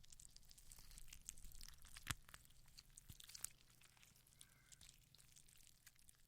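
Faint close-up crackling and small clicks from skincare and makeup products being handled, with one sharper click about two seconds in.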